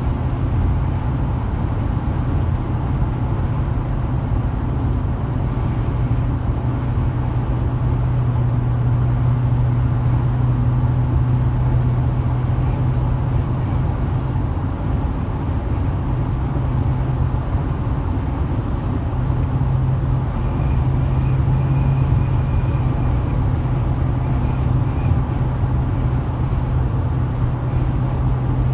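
2008 Chevrolet Silverado 2500HD's 6.0 L V8 at steady cruising speed, heard from inside the cab: a steady low engine drone over road and tyre rumble. The drone eases about halfway through and then comes back.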